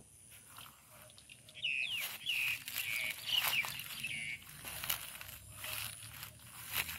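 A bird chirping: a string of short notes that bend in pitch for about three seconds in the middle, over light, scattered rustling.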